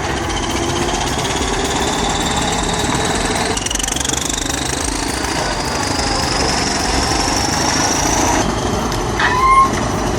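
Heavy tracked machine's diesel engine working under load, with a high whine that rises in pitch through the middle of the stretch and a short louder squeal near the end.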